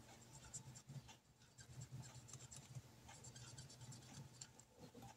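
Faint scratching of a pen writing on paper, with small irregular ticks over a low steady room hum.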